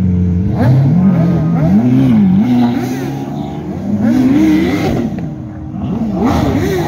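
Car engines being revved at a car meet, the engine note climbing and dropping again and again as the throttle is blipped.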